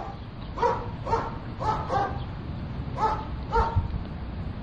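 A dog barking: about seven short, sharp barks with uneven gaps between them.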